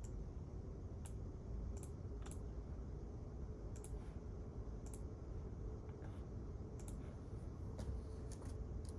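Quiet library room tone: a steady low ventilation hum with a faint steady tone, and about nine light, irregular clicks, like keys being tapped.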